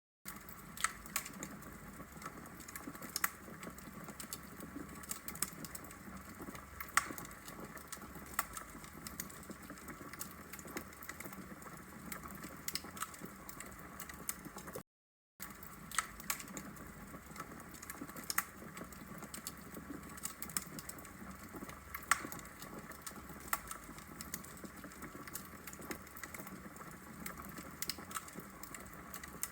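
Logs burning in a fireplace: steady crackling with frequent sharp pops over a low hiss, cutting out to silence for a moment about halfway through.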